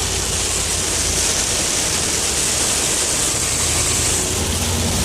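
Steady rushing noise inside a moving car driving through a storm, rain and wet road under the tyres, over a low steady drone from the car.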